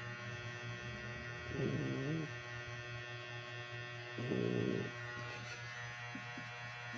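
Dog snoring: two snores about two and a half seconds apart, over a steady electrical hum.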